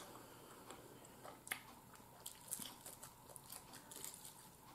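Faint crunching and chewing of a fried chicken wing, heard as a scatter of small crisp clicks.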